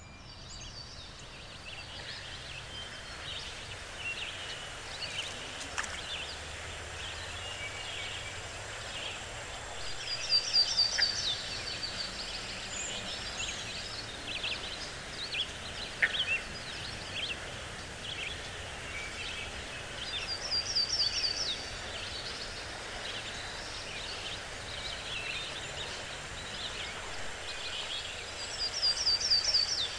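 Forest birds chirping and calling, with a loud, rapid trill of about a second that comes three times, roughly every ten seconds, over a light background hiss.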